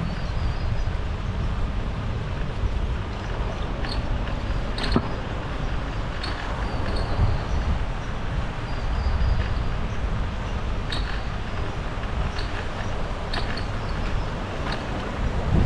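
Wind rumbling on the microphone of a moving bicycle, with a few sharp clicks and rattles scattered through it.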